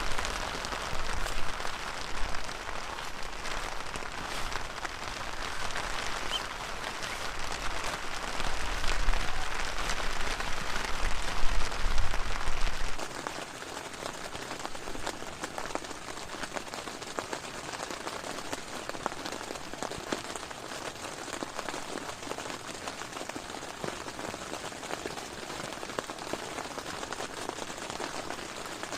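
Heavy rain falling steadily, with gusts of strong wind rumbling on the microphone for the first half. About halfway through, the wind rumble stops suddenly and only the rain remains.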